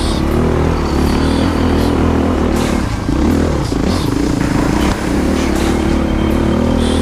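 Dirt bike engine, a Honda CRF450RX's single-cylinder four-stroke, running under load with its pitch rising and falling as the throttle is worked, dipping briefly twice. Short clattering knocks over it.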